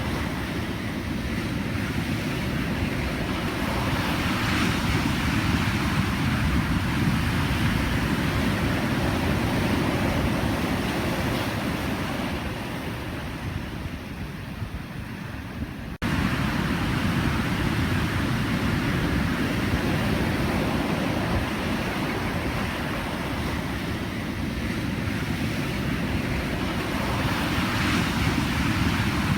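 Ocean surf washing continuously, swelling and easing slowly. About halfway through it fades a little, then cuts and comes back louder all at once.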